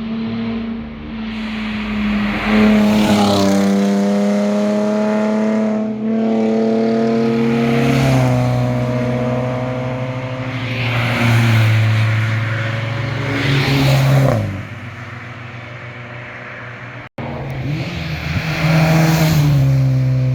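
Sports cars accelerating past one after another on a winding road, engines revving, with the pitch climbing and then dropping at each gear change. The sound breaks off abruptly about three-quarters of the way through and picks up on another car pulling away.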